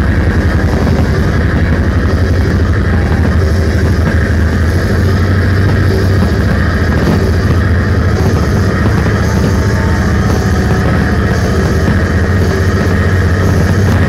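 Fireworks finale barrage: aerial shells bursting so thickly that the booms merge into one continuous loud rumble, heaviest in the low bass.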